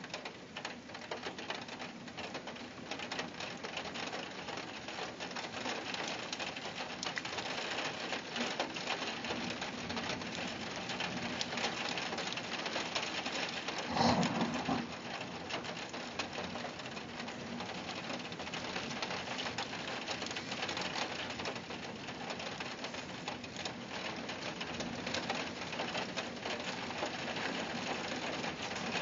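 Heavy rain pattering against a window pane, a dense crackle of drops that slowly grows louder. About halfway through there is a brief, louder low thud.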